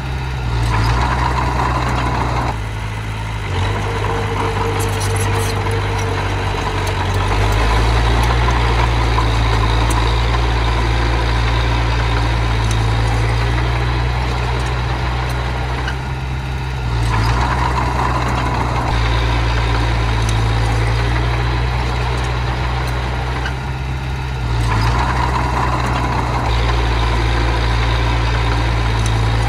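Miniature bulldozer's engine running steadily while it pushes earth, its pitch and loudness shifting with the load and dipping briefly three times.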